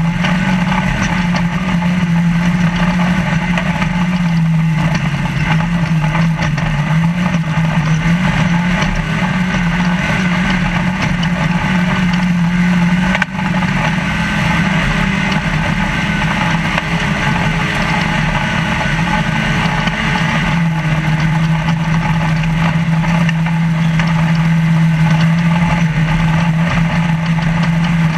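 Trophy Lite desert race truck's engine running hard at speed, heard from inside the cab over steady rattle and road noise. The engine note wavers up and down in the first half, dips for an instant about halfway through, then holds steady near the end.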